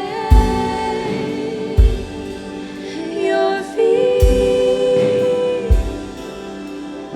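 Live worship band playing a slow song, a singer holding long notes that slide between pitches, over deep drum hits about every one and a half seconds.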